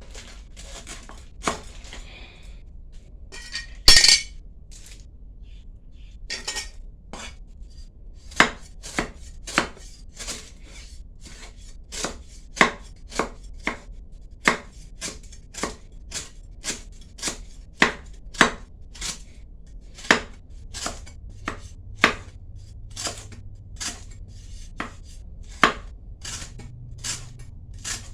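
Knife chopping on a cutting board. The strokes are irregular at first, with one loud knock about four seconds in, then settle into a steady rhythm of a little under two strokes a second.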